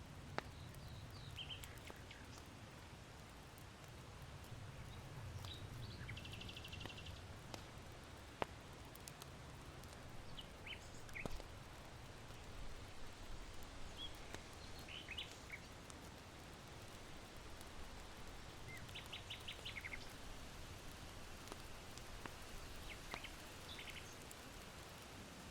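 Small birds chirping in short scattered calls and a couple of rapid trills, over a steady low wind rumble. A few single sharp pops from crackling hearth charcoal, the loudest about eight seconds in.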